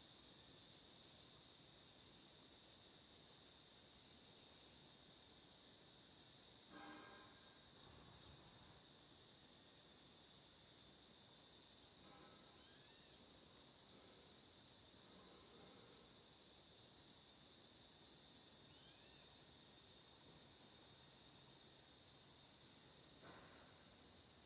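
Steady, unbroken chorus of insects, high-pitched with a slight pulsing. A few faint, brief calls stand out over it, the clearest about seven seconds in and near the end.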